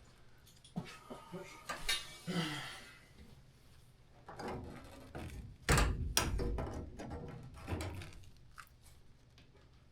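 Work handling noise: scattered clicks and knocks, with a scraping stretch about two seconds in and a heavy thunk about six seconds in, the loudest sound.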